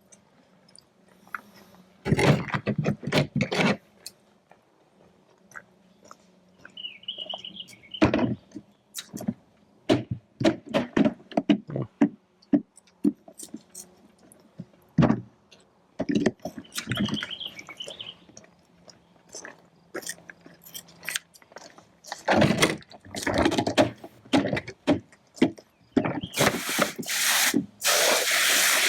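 Hands and a knife working inside a chicken carcass during gutting: scattered knocks, clicks and handling sounds with short pauses, and a loud hiss near the end.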